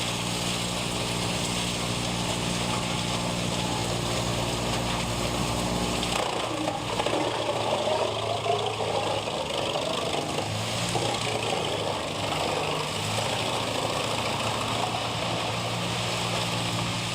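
Wood chipper's engine running steadily. For several seconds in the middle the even drone gives way to a rougher, noisier stretch with wavering tones, then the steady engine note returns near the end.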